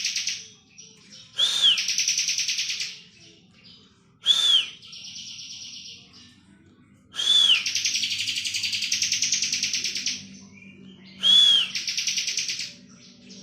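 Ciblek kristal (bar-winged prinia) singing its 'ngebren' song. The bird repeats a phrase four times, each a sharp arched whistle running into a long, fast, buzzing trill, the longest lasting about three seconds.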